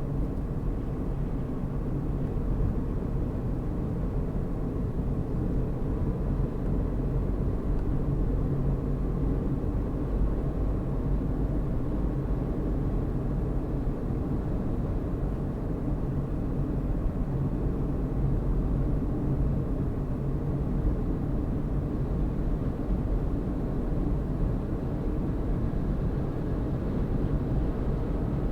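Car driving at a steady speed: a steady low rumble of engine and tyres on the road.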